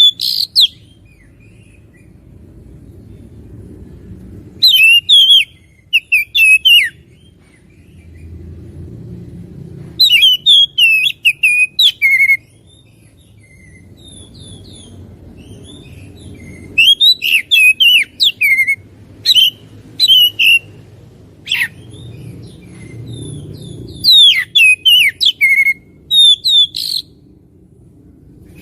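Oriental magpie-robin (kacer) singing in loud bursts of rapid, sharp whistled phrases a few seconds apart, with gaps between the bursts. A faint low rumble fills the gaps.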